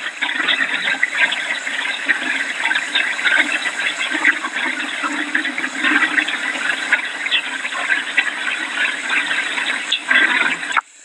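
Steady, loud rush of hurricane rain and wind on a phone microphone, crackling throughout, cutting out abruptly near the end.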